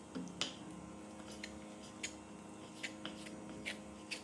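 Kitchen knife cutting raw chicken on a cutting board: about eight light, irregular clicks of the blade against the board over a low steady hum.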